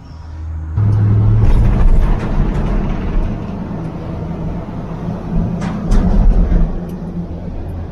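A motor vehicle's engine running with a low rumble and road noise, starting abruptly about a second in and swelling twice.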